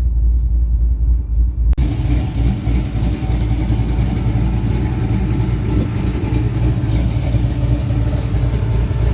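A car's engine and road rumble while driving; about two seconds in, a loud steady hiss of wind and road noise cuts in suddenly and carries on over the rumble.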